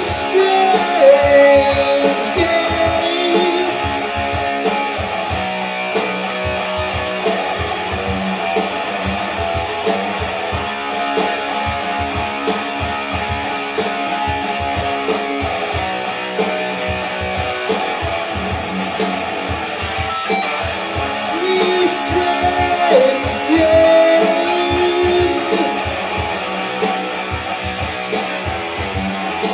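Rock band playing: strummed electric guitar over a steady drum beat. A singer's voice comes in briefly at the start and again about 22 seconds in.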